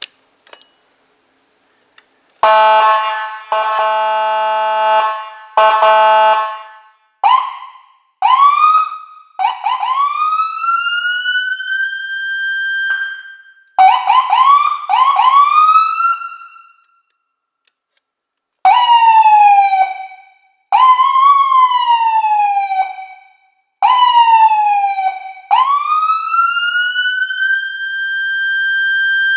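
Whelen 295SLSA1 electronic police siren played loud through two 100-watt speakers. It starts with two bursts of a steady buzzy horn tone, then a run of short rising whoops, a series of falling sweeps, and a long rising wail that climbs and holds at the top. Each tone leaves a long echo tail when it stops.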